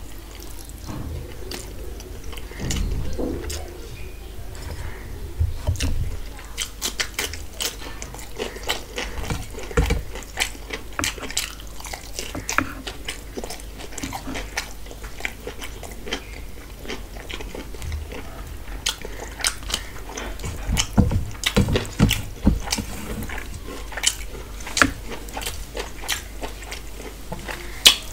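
Close-up chewing and lip-smacking of a man eating rice and mutton curry by hand, with many quick, wet mouth clicks.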